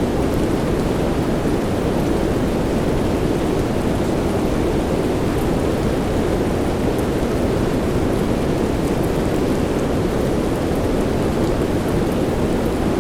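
Steady soft rain in a deep, even rush that does not change, with faint scattered drop ticks and no separate thunderclap.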